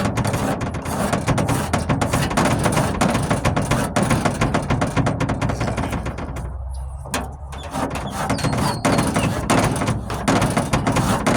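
Stanley Surform flat blade rasping Bondo body filler on a truck tailgate, in a dense, rapid scraping of quick strokes with a short pause a little past halfway.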